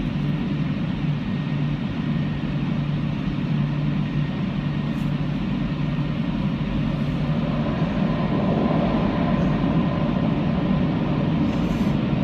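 Automatic car wash air dryer blowing steadily over the car on its final pass, growing louder about two-thirds of the way through.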